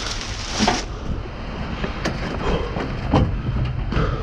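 Trash and scrap being shifted around in a dumpster, with a few sharp knocks and clatters, over a steady rumble of wind on the microphone. A brief loud rustle comes at the start.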